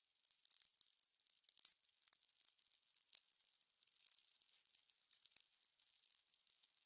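Fire crackling: irregular sharp snaps and pops over a faint high hiss.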